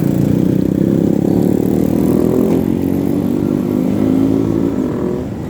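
Road traffic: motorcycle and car engines running close by, loud and steady.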